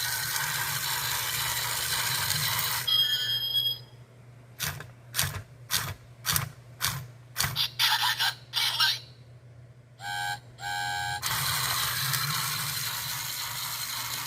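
Motorised toy Gordon train running on its track with a steady mechanical rattle, which stops a few seconds in with a short tone. Its speaker then plays about ten steam chuffs that quicken, followed by two whistle toots, and the motor starts running again near the end.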